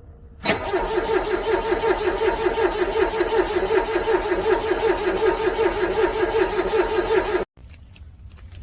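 Cold car engine cranking on its starter motor without catching: a steady whirring that pulses evenly about four to five times a second. It starts suddenly about half a second in and cuts off abruptly near the end.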